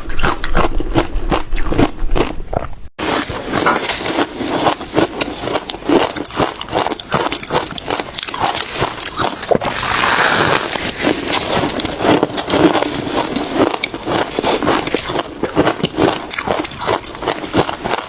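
Ice being bitten and chewed close to the microphone: a dense run of crisp, irregular crunches. There is a sudden break about three seconds in, where a new stretch of crunching starts.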